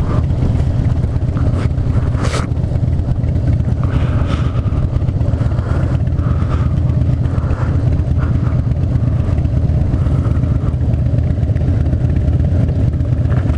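Harley-Davidson Fat Bob's V-twin engine running steadily under way, heard from the rider's helmet camera with wind rushing over the microphone.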